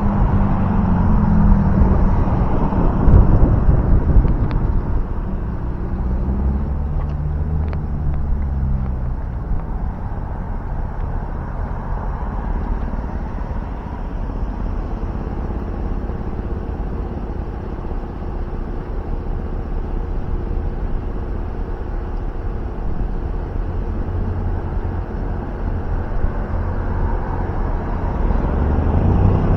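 Street traffic: motor vehicle engines rumbling steadily, with engine tones rising and falling as cars pass, twice in the first half.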